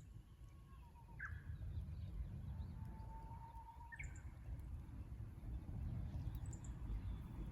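Japanese bush warbler singing twice, each song a long held whistle ending in a quick higher flourish, over a steady low rumble.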